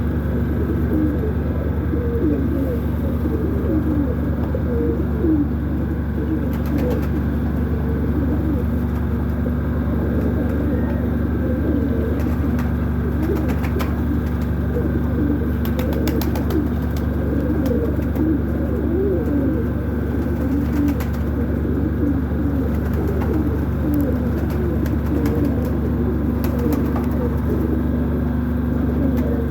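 A flock of pigeons cooing together continuously, many overlapping calls, over a steady low mechanical hum.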